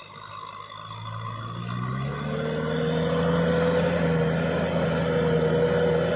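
Kubota tractor engine running slow, then revving up over about a second and a half and holding a steady, higher speed.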